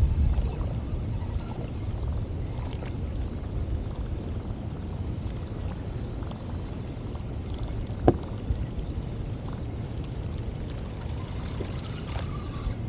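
Water sloshing and lapping around a kayak over a steady low rumble, with one sharp knock about eight seconds in.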